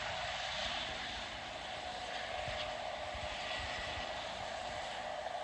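Helicopter running on the ground without lifting off, burning fuel as it waits: a steady engine tone over an even rush of engine and rotor noise.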